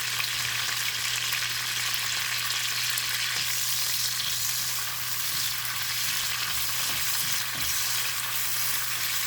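Thai basil leaves deep-frying in hot oil, with a steady sizzling hiss that runs on without a break, over a steady low hum.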